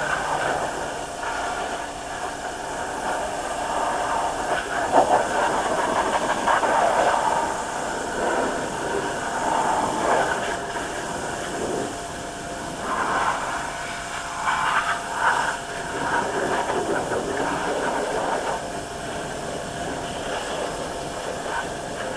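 A hissing spray that swells and fades unevenly, as the engine bay is sprayed down.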